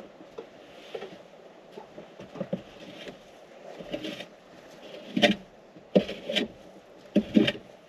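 Irregular crunching and scraping in snow, with a few sharp, louder strokes in the second half.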